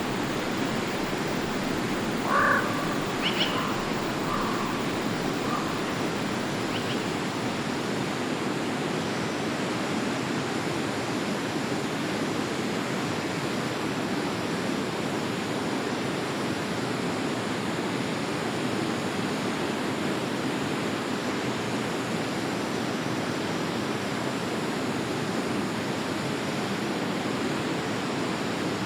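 Forest stream flowing steadily. A few short animal calls sound over it between about two and seven seconds in, the loudest near the start.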